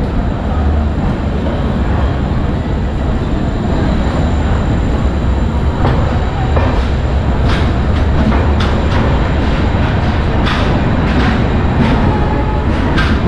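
Train running on the track: a steady heavy rumble, with the clack of wheels over rail joints coming in from about six seconds in.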